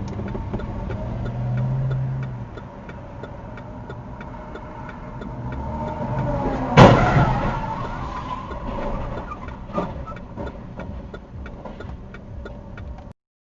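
Car driving with its engine running, then one loud, sudden crash of a collision about seven seconds in, followed by a smaller knock a few seconds later. A faint, steady ticking runs underneath.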